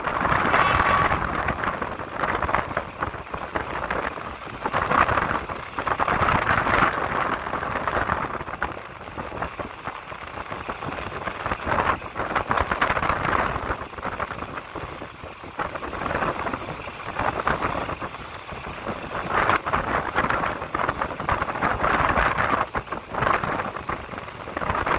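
Passenger train carriage running along the track, wheels clattering over the rails with air rushing past the open window; the noise swells and fades every few seconds.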